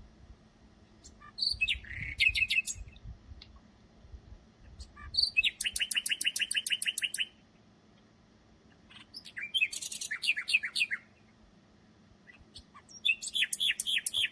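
Common nightingale singing: four separate song phrases with short pauses between them. Each phrase opens with a clear note and runs into a rapid series of repeated notes.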